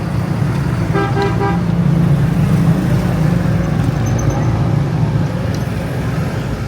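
Vehicle engine running steadily, with a horn beeping a few quick times about a second in.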